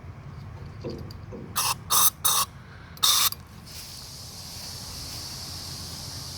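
Aerosol cleaner can sprayed into the clogged passages of a Chevy TBI throttle body: four short bursts, then a fainter steady hiss.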